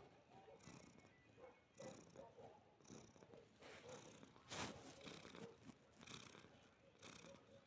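Domestic cat purring close by, its purr swelling and fading in cycles of about one a second. A sharper click stands out about four and a half seconds in.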